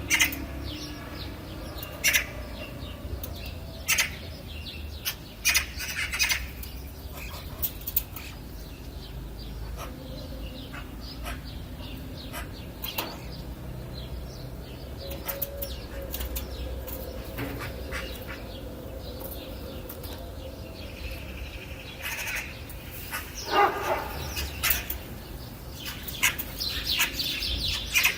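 Wild birds chirping and calling in short, scattered notes over a steady low rumble, with calls coming thicker near the end.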